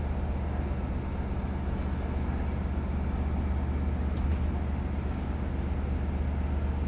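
Steady low rumble of a diesel locomotive idling while its train stands in the station.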